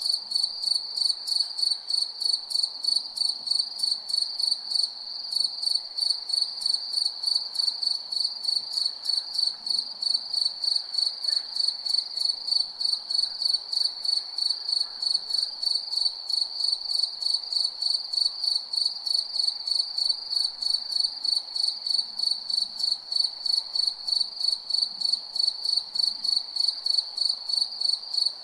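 Cricket chirping: a single high-pitched trill pulsing in a steady rhythm of about three chirps a second, with a brief lull about five seconds in.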